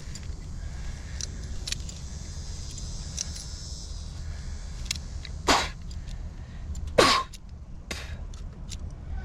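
Small metal clicks and clinks from plumbing fittings and tools being handled, with two brief louder scraping noises about halfway and two-thirds through, over a steady low rumble.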